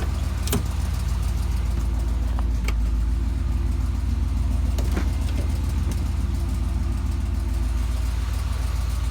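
1978 Chevy Malibu's engine idling steadily, with a few light clicks about half a second, two and a half, and five seconds in.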